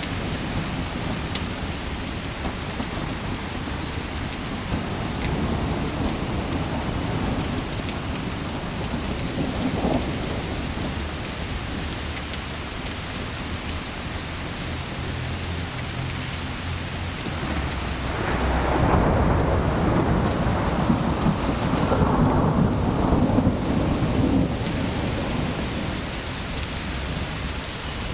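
Steady heavy rain hissing, with thunder rumbling; a long roll of thunder swells about two-thirds of the way in and fades a few seconds later.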